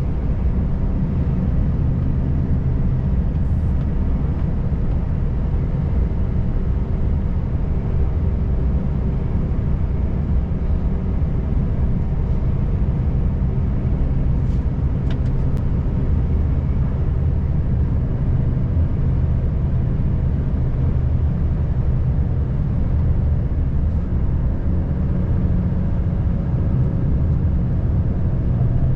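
Volvo FH540 truck's 13-litre straight-six diesel running steadily under load as the truck builds speed toward a hill, a low drone with road noise underneath.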